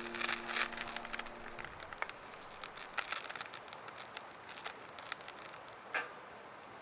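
Wood fire crackling with scattered sharp pops. A few held musical notes fade out in the first second or two.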